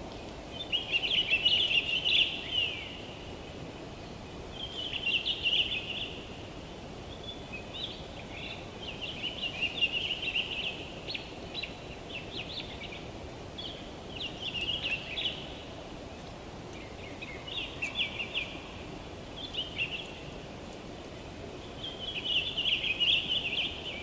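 A songbird singing repeated phrases of quick, chattering notes, a new phrase every few seconds, over a steady low background hiss.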